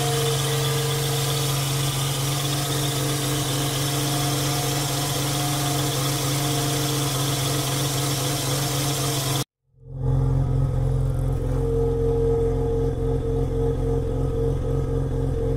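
1988 Mazda RX-7's 13B two-rotor rotary engine idling steadily, heard first over the engine bay. After a brief cut about nine and a half seconds in, the same idle is heard at the tailpipe, deeper and with a quick even pulsing from the exhaust.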